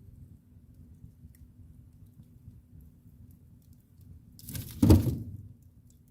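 Wood fire burning in a fireplace: a low, steady rumble of flames with a few faint crackles. About four and a half seconds in there is one loud burst lasting about a second.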